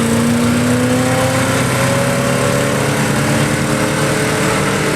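Stock 1987 three-quarter-ton four-wheel-drive pickup's gas engine running hard under full load as it drags a weight sled, the engine note holding nearly steady with only a slight drift in pitch.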